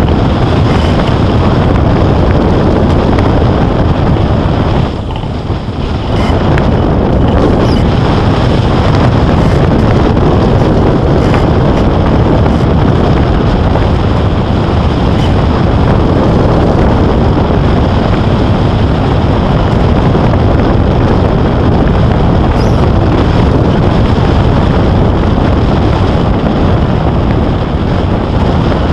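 Loud, steady rush of wind over the microphone from airflow in flight, with a brief lull about five seconds in.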